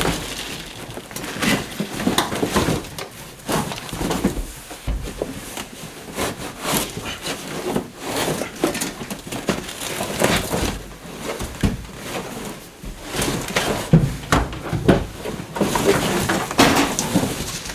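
Old car carpet and its underlay being pulled up off the floor pan: irregular rustling, scraping and knocking throughout.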